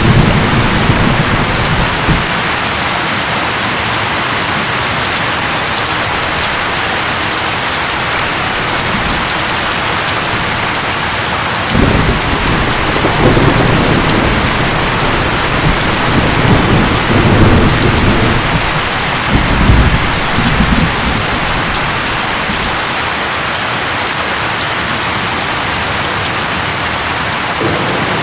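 Steady heavy rain, with low rolls of thunder rumbling near the start and again through the middle.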